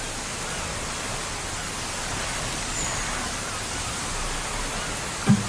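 Torrential rain pouring steadily onto a flooded street, an even hiss. Music with a beat starts abruptly near the end.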